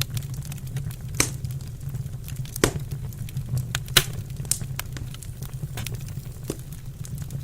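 Wood fire crackling in a fireplace: a steady run of small snaps with sharper pops about 1, 2.5, 4 and 6.5 seconds in, over a low steady rumble.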